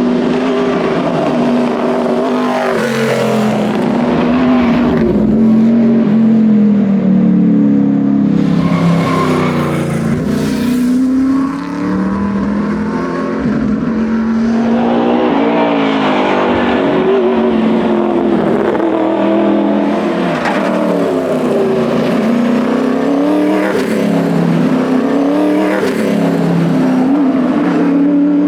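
1980 Ford Falcon XD Phase 5 competition car's engine at racing speed, its revs climbing and dropping again and again through the gears, with a short lift off the throttle about eleven seconds in.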